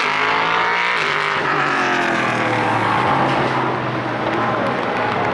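Several race car engines at high revs, their notes overlapping and gliding up and down in pitch as the cars accelerate and pass.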